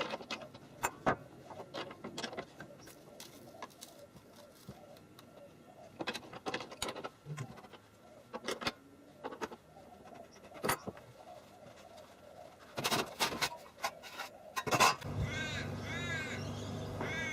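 Scattered sharp clicks and knocks, then, about three-quarters of the way in, a steady low hum begins and a bird gives a rapid run of repeated cawing calls.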